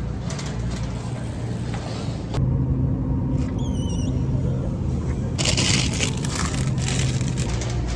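Steady low rumble of a car, with a sudden change about two seconds in, a short wavering high chirp near the middle, and a brief burst of hiss a little later.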